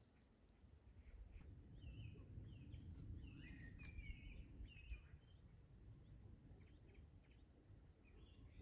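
Near-silent outdoor ambience: a bird gives a quick series of short chirps between about two and five seconds in, over a steady high thin whine and a faint low rumble.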